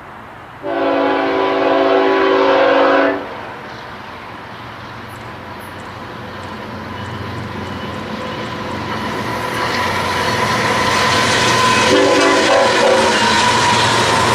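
Diesel freight locomotive air horn sounding one long chord-like blast for about three seconds, a horn salute from the engineer. After it, the rumble and rail clatter of the approaching train grow steadily louder, and a second short horn sound comes near the end.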